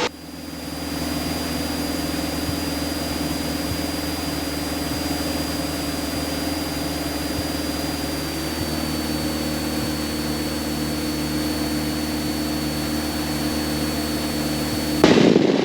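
Light aircraft's piston engine and propeller droning steadily in the cockpit, dropping slightly in pitch about halfway through. A loud burst of noise near the end.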